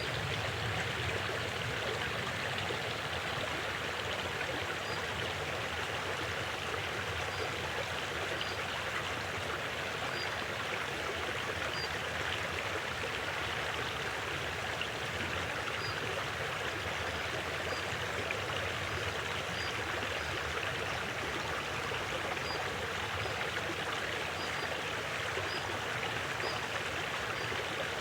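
River water flowing steadily, an even continuous rush, with faint short high chirps scattered through it.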